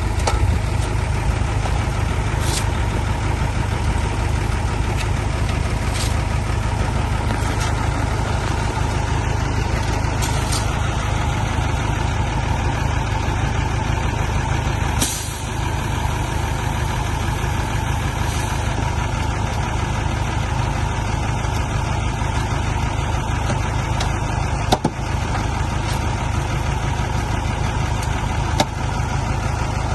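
Heavy diesel engine running steadily with a deep drone, with a few short sharp sounds breaking in now and then, the strongest about halfway through.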